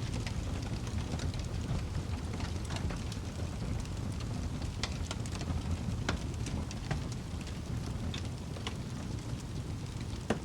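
Wood fire crackling in a fireplace: a steady low rumble of burning with irregular sharp pops and snaps from the wood, one sharper pop near the end.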